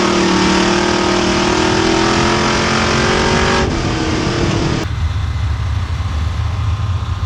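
Race car engine accelerating hard, its pitch rising slowly, cut off abruptly a few seconds in; after that a deeper, lower engine rumble.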